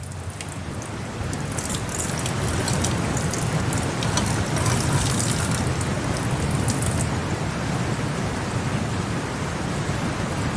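Steady hiss of water or rain, a dense even wash with fine crackling in the high end that drops away about seven seconds in.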